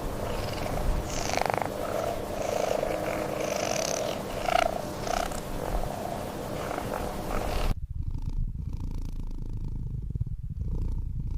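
A cat purring, a continuous low rumble. Over the first part a brighter, noisier layer with a few short higher sounds runs along and stops abruptly about eight seconds in, leaving the purr on its own.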